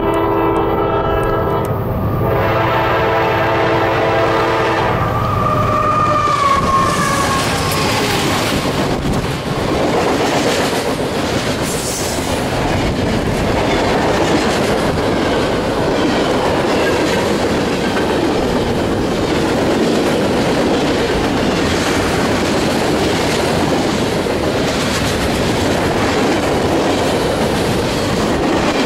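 Freight train passing close by. The locomotive's air horn sounds in two long blasts as it approaches, the second ending about five seconds in. Then a long string of hopper, tank and box cars rolls past with steady wheel clatter on the rails.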